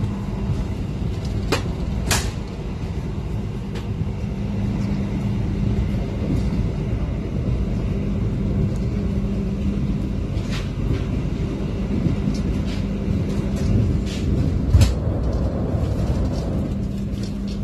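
Steady rumble of a moving passenger train heard from inside the carriage, with a low steady hum and a few sharp clicks scattered through it, the loudest near the end.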